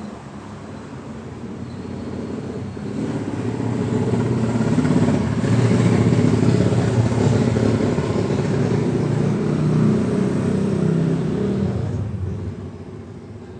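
Motor vehicle engine running, growing louder over a few seconds, holding, then fading away near the end.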